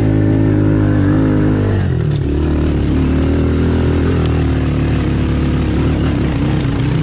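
Small Honda 110 dirt bike's single-cylinder four-stroke engine running under way on a trail. The engine note drops and changes about two seconds in, then carries on with small rises and falls in revs.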